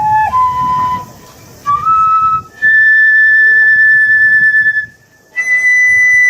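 A whistle-like tone playing a slow melody that climbs in steps, ending on two long, high held notes with a short break between them.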